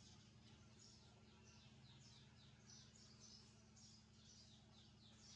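Faint, rapid chirping of small birds: short high chirps that slide downward, several a second, over a low steady hum.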